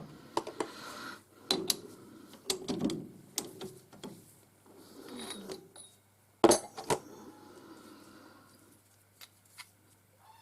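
Metal parts and tools being handled: irregular clinks and knocks, one sharp loud knock about six seconds in, with scraping and rubbing between them over a faint steady low hum.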